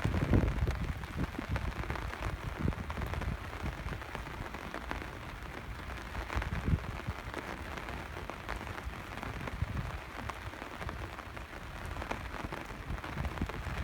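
Steady rain falling, with many irregular close drop hits and low knocks.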